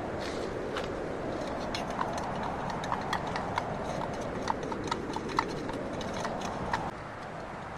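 Steady wind noise with a run of irregular light knocks and clicks, a dozen or more over several seconds. The knocks stop and the wind noise drops a little about seven seconds in.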